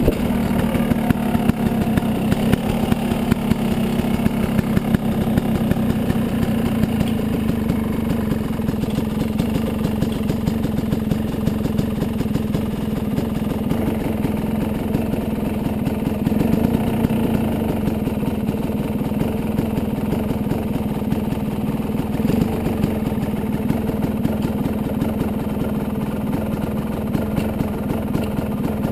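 Yamaha 250 dirt bike engine running steadily at low, even revs, a dense rapid pulse with no big rises or falls.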